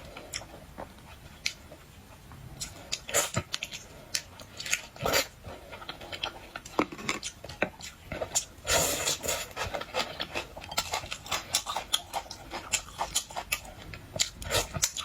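Close-up eating of boiled seafood: shells cracking and crunching, with chewing and wet mouth sounds. It is a string of quick crackles, sparse at first and coming thick and fast from about halfway in.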